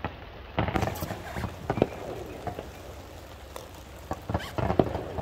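Fireworks going off: an irregular run of sharp cracks and pops, with heavier bangs about a second in and again near the end.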